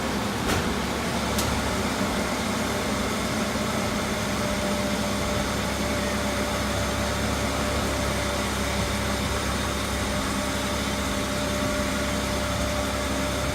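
Ford Sport Trac's 4.0-litre V6 idling steadily, with belt chatter from the accessory drive still present despite a new idler pulley; the owner now suspects the crank pulley.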